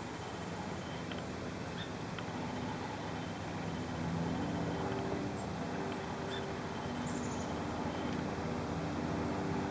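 Steady hum of a vehicle engine, growing a little louder about four seconds in, with a few faint, short high chirps and ticks over it.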